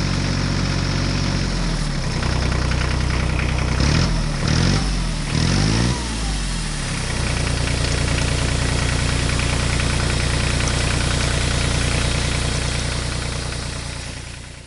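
Diesel tractor engine idling steadily, with several quick rises and falls in pitch between about four and six seconds in; the sound cuts off at the end.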